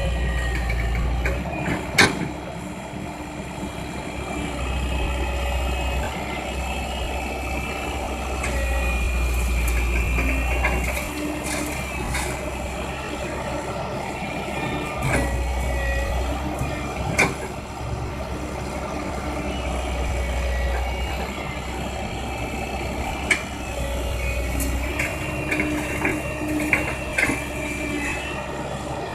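Komatsu hydraulic excavator's diesel engine running steadily, swelling and easing every few seconds as it works, with occasional sharp knocks of crushed rock and steel bucket clanking; the loudest knock comes about two seconds in.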